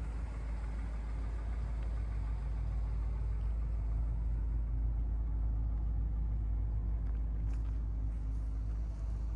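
1976 Cadillac Eldorado's 500 cubic-inch V8 running steadily with a deep, even rumble.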